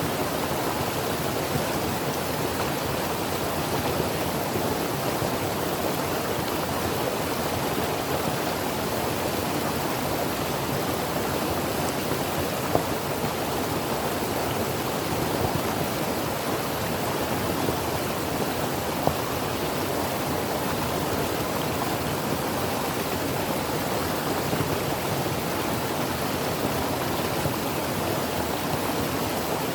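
Creek water running over rocks: a steady, even rush with a few small splashes.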